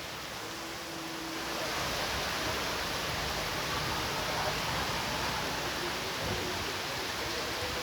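Heavy storm rain and strong wind making a steady rushing noise that swells about one and a half seconds in.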